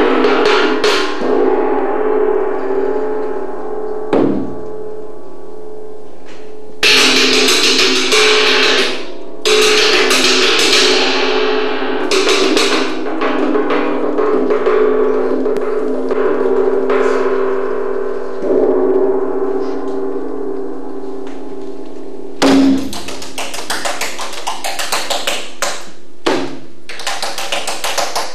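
Live improvised percussion: struck metal, gong-like, ringing on with long decays and steady humming tones, renewed by a hard strike every few seconds. In the last five seconds the strikes come in a quick, dense flurry.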